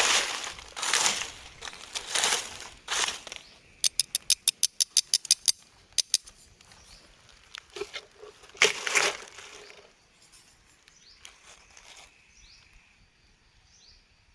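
Crunching and rustling strokes about once a second, then a quick run of about a dozen sharp clicks, one more loud rustle, and faint high chirps near the end.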